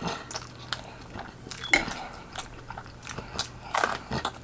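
Close-miked eating sounds: a person chewing and biting food, with irregular wet clicks and smacks of the mouth.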